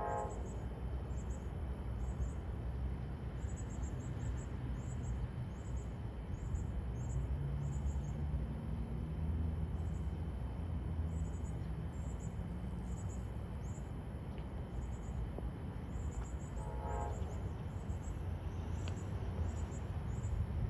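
Approaching Amtrak train heard from a distance: a low, steady rumble, with the locomotive's chime horn ending a blast right at the start and sounding one short blast about 17 seconds in. Insects chirp in repeated high pulses over it.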